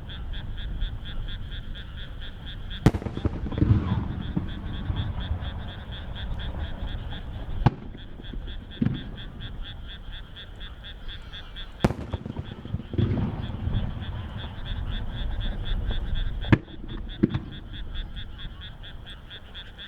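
Aerial firework shells bursting one at a time: four sharp bangs about four to five seconds apart, some followed by a low rolling rumble. Under them a frog chorus calls steadily in fast pulses.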